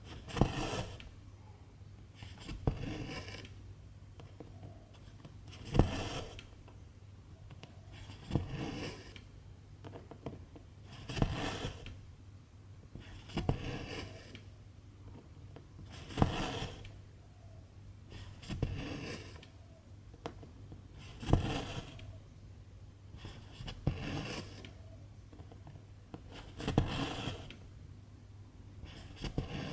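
Needle poking through cross-stitch fabric and silk thread being drawn through after it. It repeats about every two and a half seconds, a dozen stitches, each a sharp tick followed by a short rasping pull.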